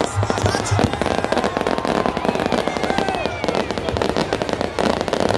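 Fireworks and firecrackers going off in a dense, unbroken crackle, many sharp cracks and pops a second at a steady loudness.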